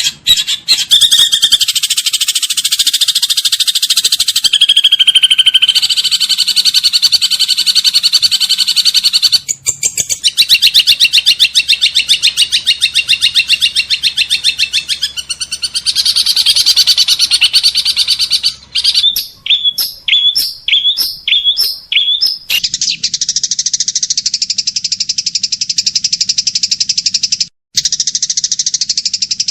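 Songbird song recordings spliced together as tutoring material: loud, fast continuous trilling song in several cut segments, then a run of about eight short sharp chirps, then from about three-quarters of the way through a steady shrill insect-like buzz over a low hum.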